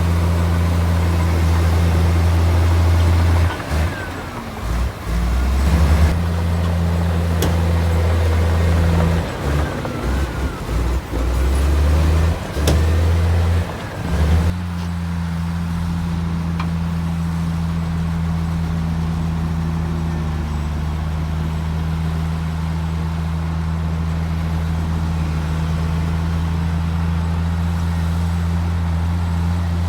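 Heavy earthmoving machine's diesel engine running under load. Its low drone wavers and dips repeatedly during the first half, then settles into a steady drone about halfway through.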